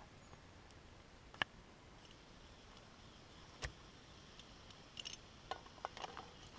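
A few light clicks and knocks from handling food and cooking gear at a camp meal: one click, then a sharper knock, then a quick run of small ticks and taps near the end, over a quiet background.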